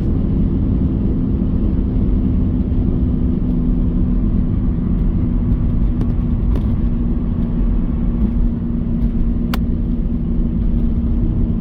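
Steady drone of a vehicle on the move: engine and road rumble with a constant low hum.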